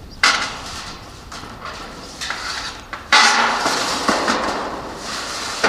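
Colour-coated corrugated steel roofing sheet clattering and rattling as it is handled: one sudden loud clatter that fades, then a second, longer stretch of rattling starting about three seconds in.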